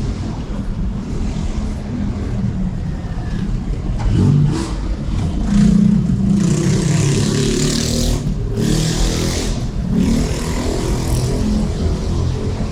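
City street traffic: vehicles driving past with a steady low rumble. One vehicle revs up and passes louder about halfway through, followed by a few seconds of hiss.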